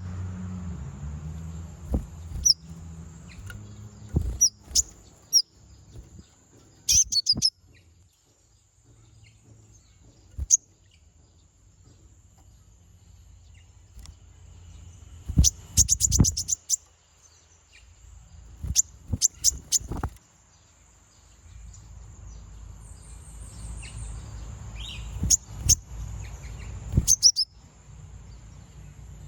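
Brown-throated sunbird (konin, kolibri ninja) calling: sharp high chirps and quick trills in scattered clusters, the busiest run about halfway through. A steady faint high hum runs underneath.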